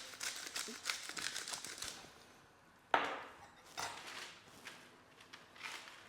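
Pepper mill being ground, a quick run of fine grinding clicks for about two seconds. About three seconds in comes a sharp knock, then a few lighter kitchen clatters.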